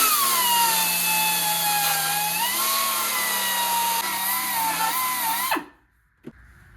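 Handheld power tool running at high speed on the car's sheet metal, a steady high whine that sags and wavers slightly under load. About five and a half seconds in it is switched off and winds down.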